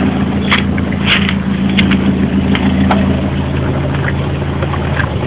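Car engine idling steadily with a low hum, with scattered short clicks and ticks over it.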